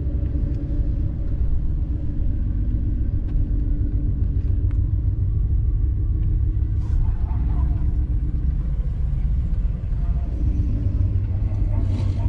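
Ford Mustang GT's 5.0 V8 with a full aftermarket exhaust running steadily at low revs, a deep even rumble with no revving.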